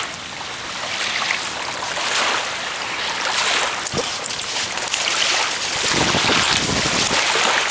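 Small lake waves washing and lapping at the shore in swells that rise and fade, with wind buffeting the microphone.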